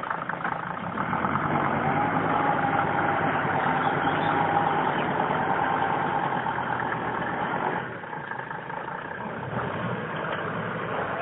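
ARO off-roader's engine running as the vehicle drives slowly away over a grassy track; the sound drops noticeably about eight seconds in.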